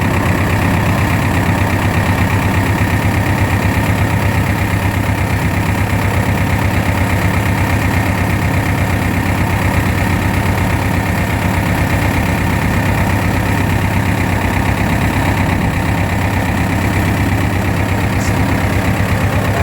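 Tractor diesel engine running steadily at low revs, a continuous throbbing chug.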